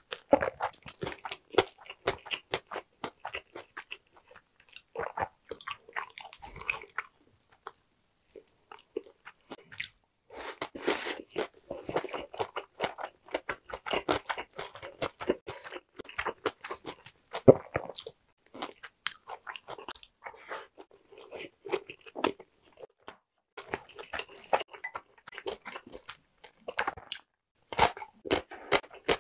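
Close-miked chewing of a mouthful of food: wet mouth clicks and soft crunches in an irregular stream, with a quieter pause about a quarter of the way in.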